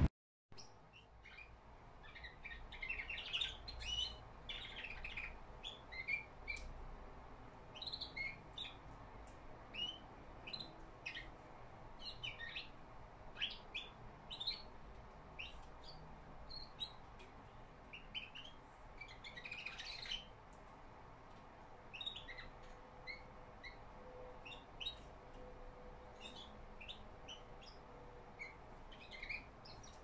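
A young pet cage bird making its first quiet attempts at song: soft, scattered chirps and twitters, in clusters, with a denser run about twenty seconds in.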